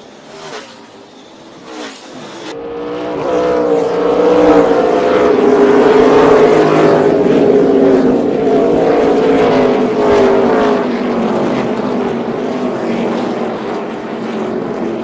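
NASCAR Gen 6 stock cars' V8 engines running at speed. The engine sound cuts in about two and a half seconds in, swells to full loudness, holds with its pitch wavering and sliding slowly, then eases off near the end.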